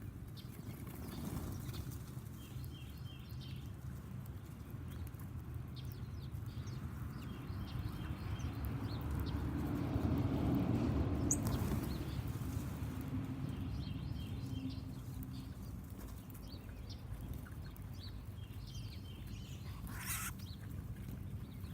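Small wild birds calling, short repeated chirps and trills heard several times, with one sharper call near the end, over a low rumbling noise that swells about halfway through.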